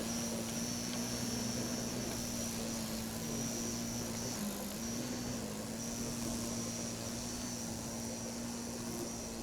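Engine of a Seagull Models T-34 Mentor RC model airplane running as a steady drone, its pitch dipping briefly about four and a half seconds in and again a second later.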